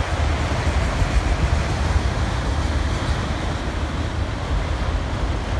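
Freight train of enclosed autorack cars rolling steadily past, a continuous rumble of wheels on rail.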